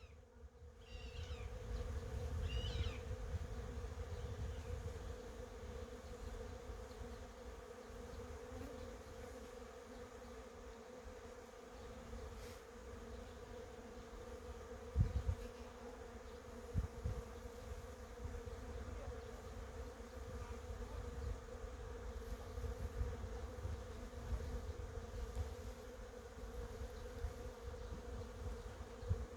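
Honeybees buzzing in a steady hum, over a low rumble, with two short knocks about halfway through.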